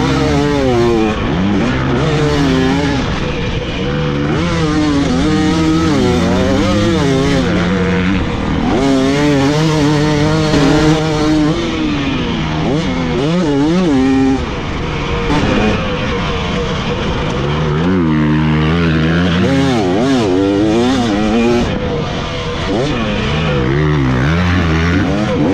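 Dirt bike engine revving hard and easing off again and again, its pitch climbing, holding and dropping in repeated cycles, with a steady rush of noise underneath.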